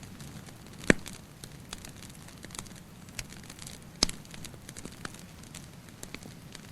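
Wood fire crackling with many small snaps and two sharp, loud pops, about a second in and about four seconds in, over a soft steady hiss.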